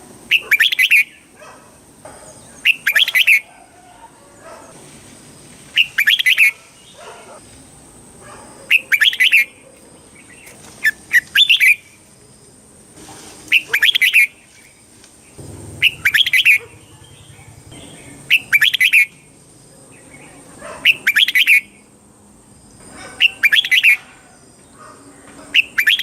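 Red-whiskered bulbul singing its short, bubbly whistled phrase over and over, about one phrase every two to three seconds, each phrase delivered in two quick parts.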